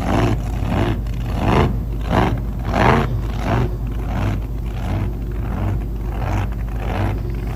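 Motorcycle engines running, a steady low hum under loud, repeated surges that come roughly every half second to second.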